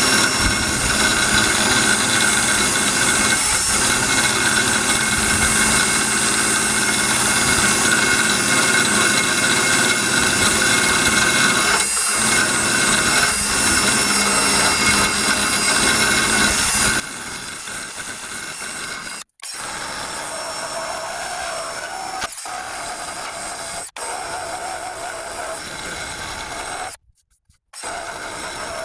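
Power drill with a paint-stripping attachment grinding paint off the truck's sheet-metal body, a loud steady whine over a grinding rasp. About 17 seconds in it drops to a quieter steady run, cut by a few sudden brief gaps.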